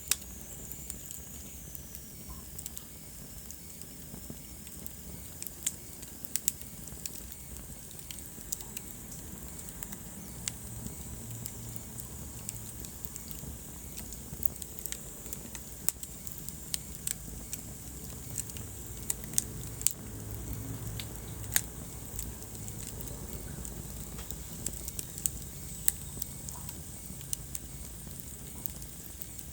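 Wood fire burning in a fireplace: irregular sharp crackles and pops over a low, steady rumble of flame. The loudest pops come about two-thirds of the way through.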